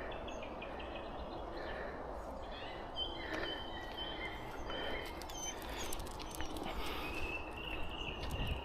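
Birds chirping and calling, with thin high notes coming in about three seconds in and again near the end, over a steady background of outdoor noise.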